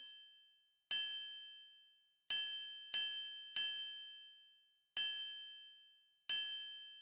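A triangle struck six times in an uneven rhythm, each strike a high, bright, metallic ring that dies away within about a second.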